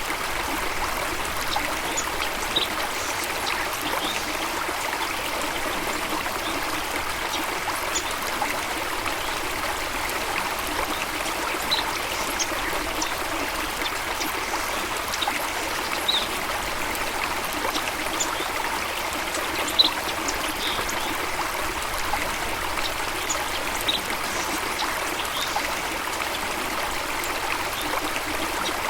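Flowing stream water, a steady even rush, with brief high bird chirps now and then.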